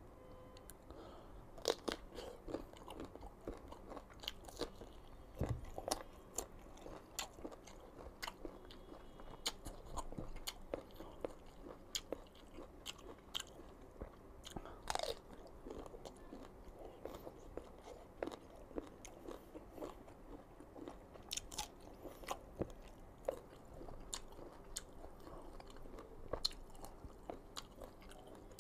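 A person biting and chewing crisp, unripe green mango: irregular crunches and sharp clicks of teeth through the firm flesh, several each second.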